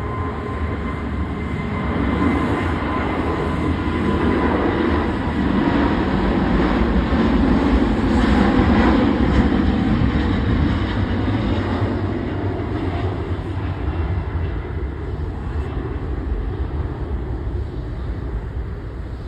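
Boeing 787-9 Dreamliner's Rolls-Royce Trent 1000 turbofans at takeoff power: a loud roar with a faint steady whine in the first few seconds, swelling to a peak about halfway through, then slowly fading as the airliner climbs away.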